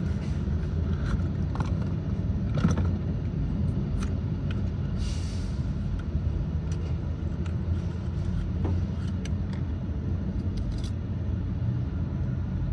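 Steady low rumble, with scattered light clicks and knocks of a socket, extension and metal engine parts being handled while spark plugs are changed, and a short hiss about five seconds in.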